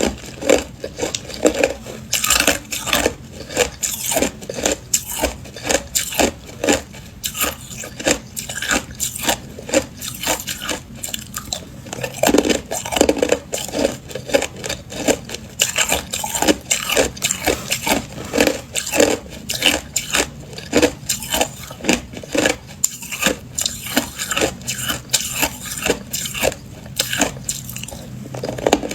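A person biting and chewing hard clear ice, giving a dense, irregular run of sharp cracks and crunches several times a second.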